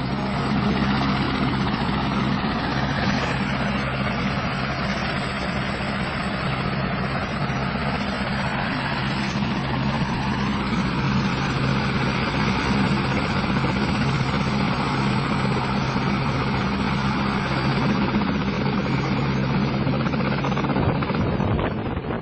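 Helicopter running steadily: a low hum and a wide noise with a thin high whine over them. The low hum drops away near the end.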